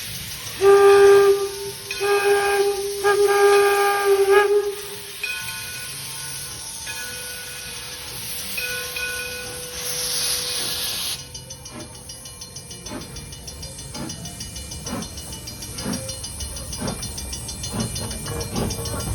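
4-4-0 steam locomotive's whistle blowing three blasts, a short one and then two longer ones run almost together, over a steady steam hiss. About eleven seconds in the hiss stops and slow, regular exhaust beats begin as the engine gets the train moving.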